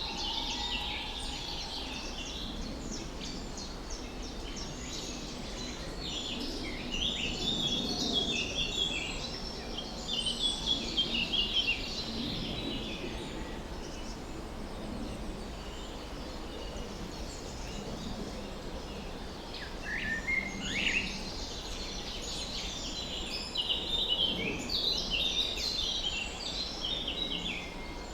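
Several songbirds chirping and trilling in a chorus, in busy clusters with quieter gaps, over a steady low outdoor background hum.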